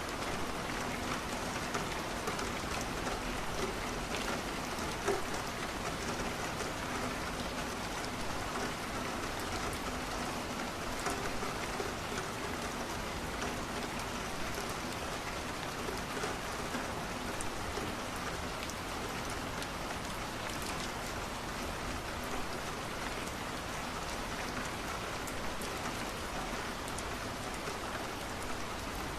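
Steady rain falling on a window, a dense even hiss with scattered faint clicks and pops; one pop is a little louder about five seconds in.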